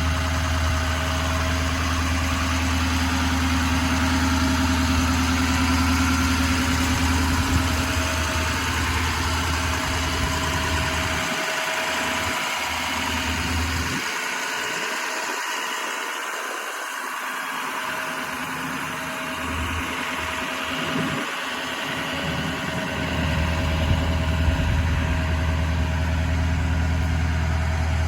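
2008 Ford ambulance's 6.0L Power Stroke V8 diesel engine idling steadily. Its deep low hum drops away for several seconds in the middle, then returns.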